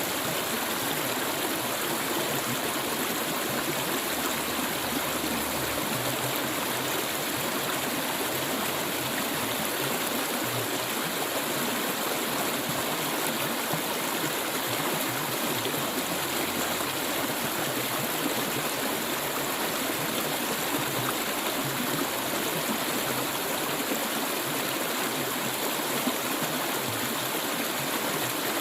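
Clear stream water flowing and babbling steadily, an even rushing sound.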